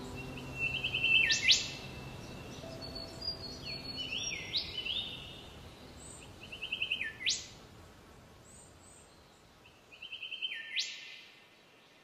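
A songbird singing the same phrase about three times: a quick run of about half a dozen trilled notes ending in one loud sweeping note. A different, shorter phrase comes between the first two. Soft background music fades out in the first half.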